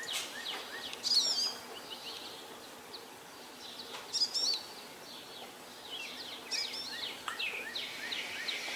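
Songbirds chirping and singing over a steady background hiss, with a burst of quick high notes about every two and a half to three seconds.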